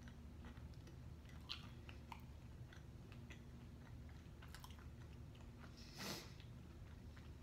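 Faint chewing with the mouth closed: small soft clicks and crunches of food being eaten. About six seconds in there is one short, louder hissing noise.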